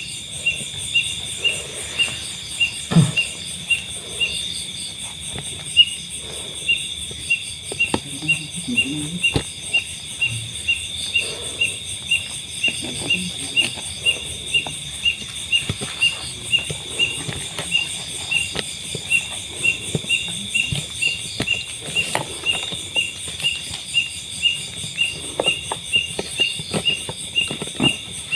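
Night insects: a steady high-pitched drone, with a cricket-like chirp repeating evenly a little over twice a second. Faint scattered knocks and rustles sound underneath.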